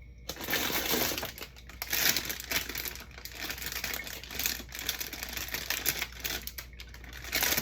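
Plastic packaging crinkling amid a rapid patter of clicks and knocks as food containers are handled and moved about.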